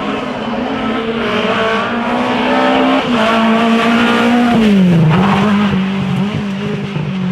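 Drift car engine at high revs, climbing in pitch over the first few seconds and held, then dropping steeply about four and a half seconds in and running on lower, with tyre squeal.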